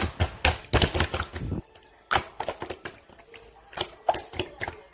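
Slime being squished and pressed by hand, giving a run of sharp wet clicks and pops. They come thickly for about a second near the start, then scattered.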